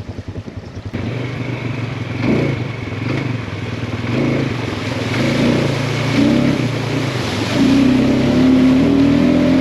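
ATV quad bike engine, a 570 cc, putting at idle, then picking up about a second in and revving up and down as the quad moves off, running louder and steadier near the end.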